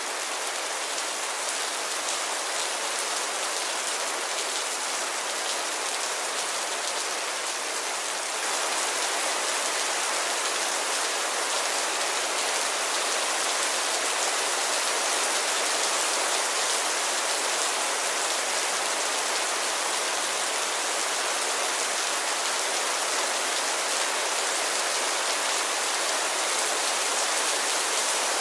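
Steady rain falling, an even hiss with no breaks, getting a little louder about eight seconds in.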